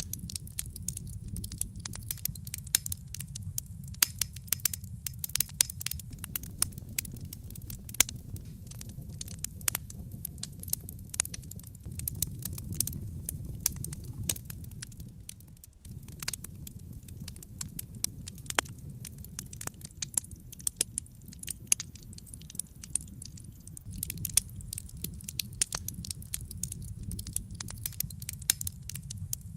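Wood fire in a fireplace crackling, with many irregular sharp pops and snaps over a steady low rumble of the flames; the sound dips briefly about halfway through.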